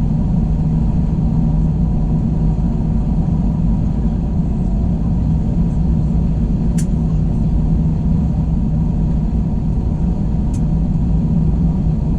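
Steady drone of an Airbus A321's jet engines and airflow heard inside the cabin, with a low, even hum and a couple of faint clicks.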